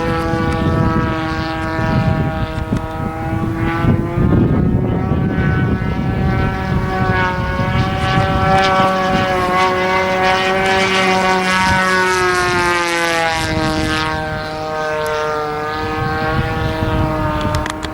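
Single-cylinder two-stroke 20cc DLE gas engine on a radio-control airplane running steadily with its propeller turning, the pitch drifting gently up and down and dropping a little about two-thirds of the way through.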